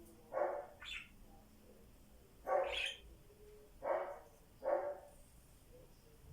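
Five short barks at uneven spacing, roughly a second apart.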